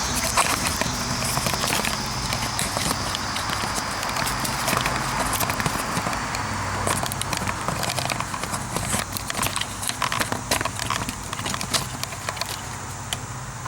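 Irregular clicks, taps and knocks of a camera being handled and set up on a tripod, over a low steady hum.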